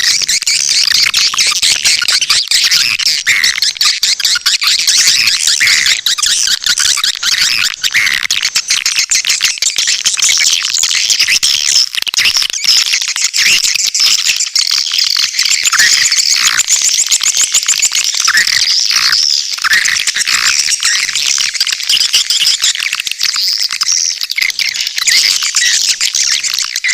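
Swiftlet calling-sound recording: a dense, continuous chorus of high, rapid chirps and twitters from many swiftlets, the kind of lure call played to draw swiftlets into a nesting house.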